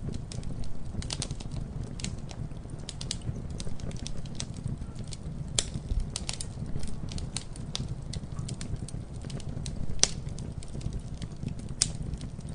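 Wood fire crackling, with a steady low rumble of burning under frequent irregular pops and snaps; a few louder pops stand out, about six seconds in, about ten seconds in, and near the end.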